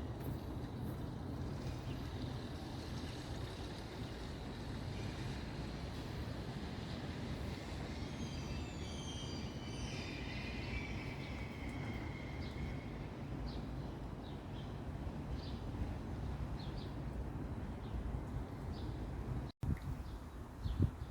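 Steady low rumble of distant city traffic, with a bird singing a run of sliding high notes from about 8 to 13 seconds in, then short, scattered chirps.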